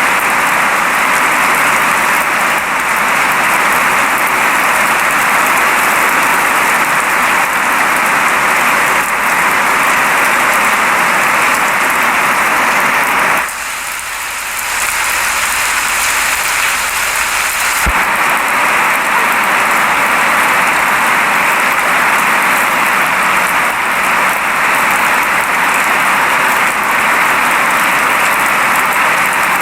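Steady rain falling, an even hiss that dips briefly quieter about halfway through.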